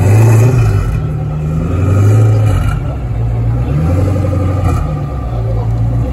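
Koenigsegg supercar's V8 engine running at low speed as the car creeps forward, its deep note rising and falling with several short throttle blips, the loudest near the start and about two seconds in.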